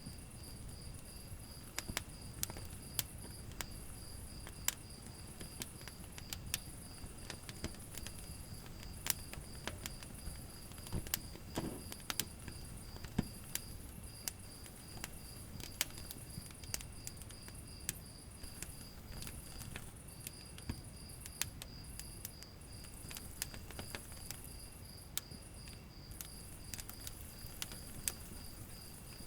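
Wood fire burning in a fireplace: irregular sharp crackles and pops over a low rumble of flame. A steady, high, pulsing chirr sits underneath.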